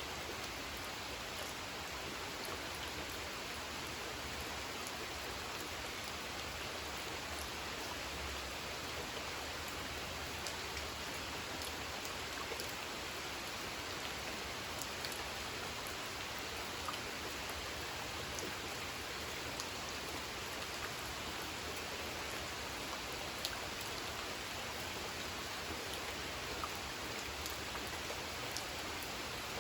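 Steady light rain falling on a spring-fed pond, an even hiss with scattered individual drop splashes.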